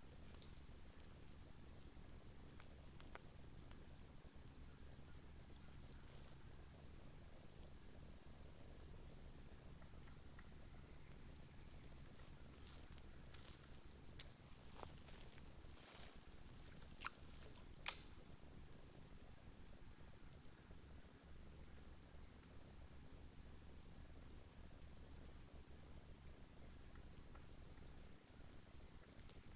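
Insects chirring steadily: one high, continuous trill with a faint regular pulse. A few sharp clicks come about halfway through.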